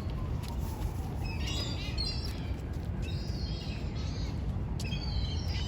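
Seagulls calling in short high squeals, in several scattered bunches, over a steady low rumble.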